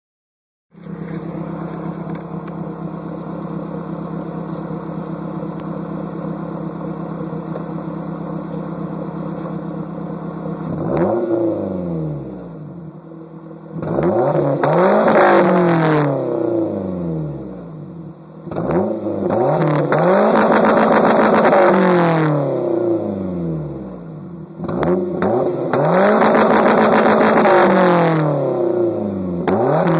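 1990 Toyota Celica GT-S's 5S-FE 2.2-litre four-cylinder engine, breathing through straight pipes after the catalytic converter, idling steadily for about ten seconds. It is then revved four times, each rev rising and falling back to idle. The later revs are held high for a couple of seconds and are the loudest part.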